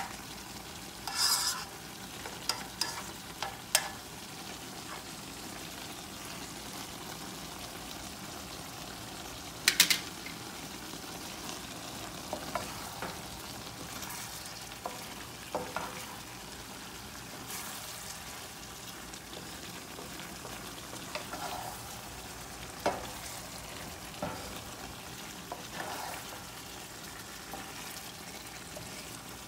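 Eggplant and minced chicken sizzling steadily in a frying pan. Scattered short knocks and scrapes against the pan come as it is stirred, the loudest about ten seconds in.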